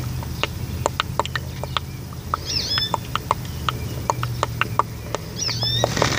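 A bird chirping twice, each a brief cluster of high sliding chirps, over many scattered light clicks and a low steady hum.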